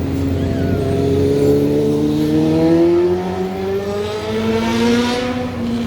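A motor vehicle's engine accelerating, its pitch rising steadily for about five seconds and then dropping near the end.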